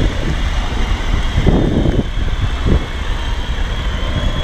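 Steady rumbling wind and road noise on a GoPro microphone while riding, with a couple of brief gusts in the middle.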